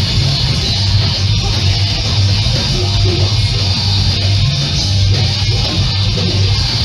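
Live hardcore punk band playing loud and dense: distorted electric guitars over bass and drums, recorded close to the stage so the low end is heavy and the sound is smeared.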